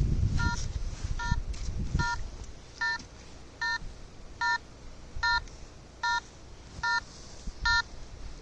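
Electronic ghost-hunting detector beeping: short beeps of several stacked tones at a steady pace of about one every 0.8 seconds. A low rumble sits under the first two seconds.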